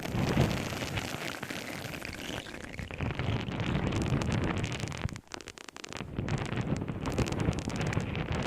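An object handled close to the microphone: dense rustling and crackling full of small clicks, with a brief pause about five seconds in.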